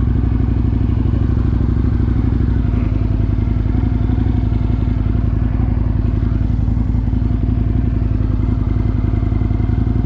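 Aprilia Tuono 1000R motorcycle's V-twin engine running steadily, its pitch holding level without revving.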